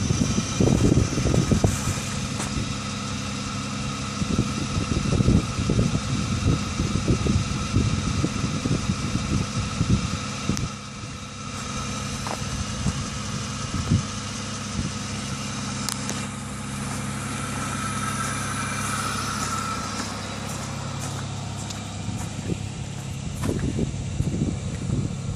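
Car engine idling steadily, with irregular low rumbles and thumps over it in the first half and again near the end.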